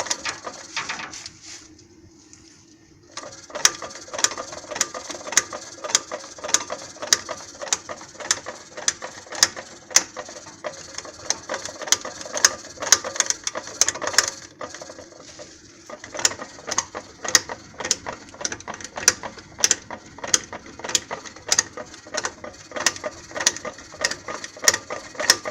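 Repeated metallic knocking from where the drive shafts enter the Mitsubishi Lancer IX's manual gearbox, sharp knocks about twice a second over a steady hum, with a short lull near the start. The owner cannot explain the knock, which appeared after the clutch was replaced with an original part.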